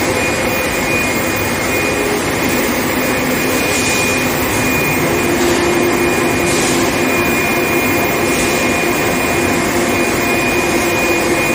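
Induction heating machine running: a steady, loud machine hum with a steady high-pitched whine over it.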